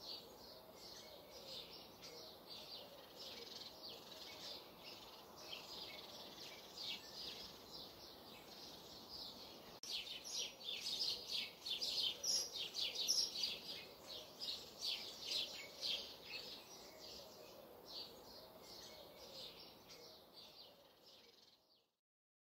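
Birds chirping and singing: a dense chorus of many short calls, louder after about ten seconds, fading out near the end.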